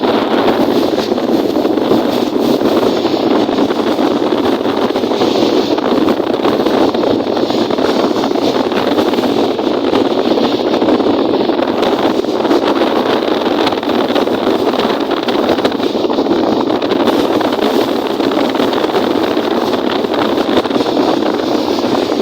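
Strong wind buffeting the microphone: a loud, steady rushing noise that keeps going without a break.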